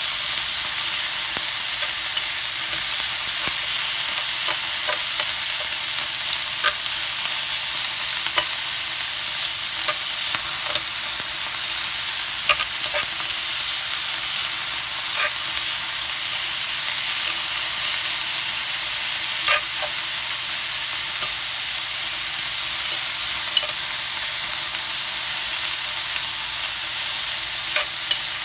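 Chicken and vegetable pieces sizzling steadily in a hot pan as they are stir-fried and turned with tongs, with a sharp click now and then as the tongs strike the pan.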